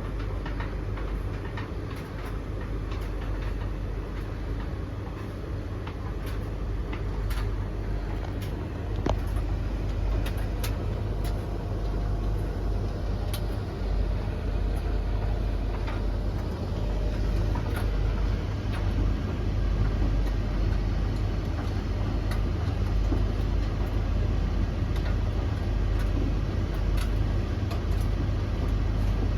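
Three tumble dryers (Blomberg LTK310030W, Russell Hobbs RH3VTD800 and Hoover HLEC8TRGR-80) running together mid-cycle: a steady low rumble of turning drums and motors, with scattered sharp clicks from the tumbling load.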